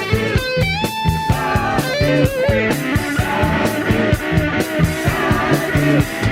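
Rock music: an electric guitar solo with bending, gliding notes over bass and a steady drum beat.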